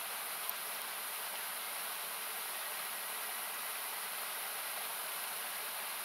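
Steady rushing of a river, heard as an even hiss that has been partly cut with an equalizer. One faint campfire crackle comes about half a second in.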